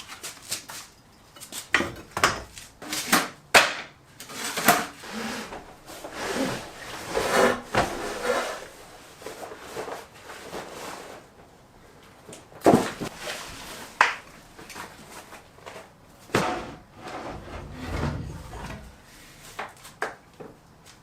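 Irregular knocks, clunks and rubbing of objects being moved and handled, with a sharp knock about a third of the way through and another just before two-thirds.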